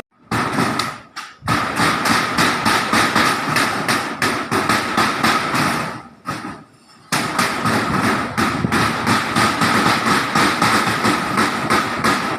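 Hammers striking rapidly and repeatedly, several blows a second, during roof repair work, with a steady high tone running underneath; the sound drops out briefly twice.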